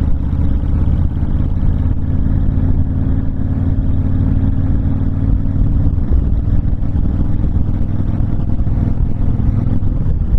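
Honda VTX1300 cruiser's V-twin engine running steadily on the move, mixed with heavy wind noise on the microphone from riding without a windshield.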